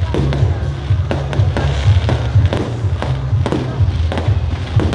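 Fireworks shells bursting overhead, with a sharp bang every half second to a second, over loud music with a heavy bass line.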